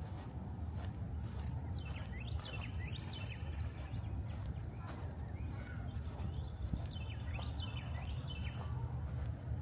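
A songbird calling in two short bursts of quick rising whistled notes, about two seconds in and again near the end, over a steady low outdoor rumble.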